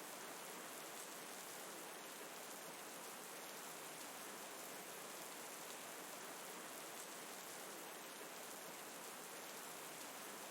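Faint, steady rain, an even hiss of falling rain with no breaks or changes.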